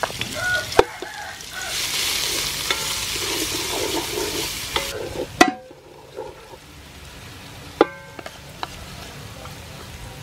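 Pounded kroeung paste sizzling in hot soybean oil in an aluminium pot as it is stirred with a wooden spoon. The sizzle is loudest for the first five seconds or so, then dies down to a fainter frying, with a few knocks of the spoon against the pot.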